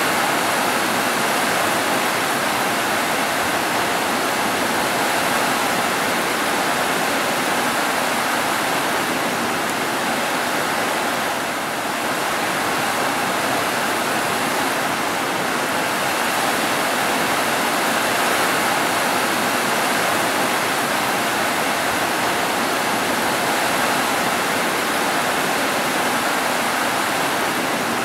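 Heavy rain falling steadily on roofs: a dense, even hiss.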